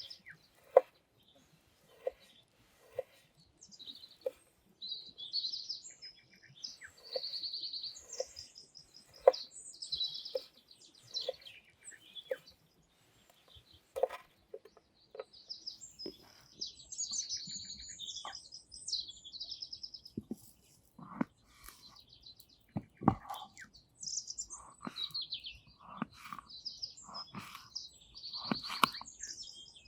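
Small birds chirping and calling repeatedly, with sharp clicks and knocks at irregular intervals.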